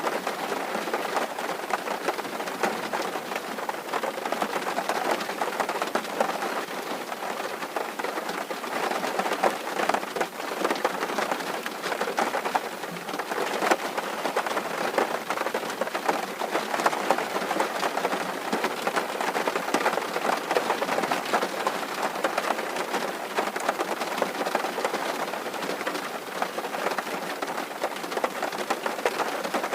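Steady rain drumming on a tin roof, a dense pattering of many small drop impacts on metal sheeting.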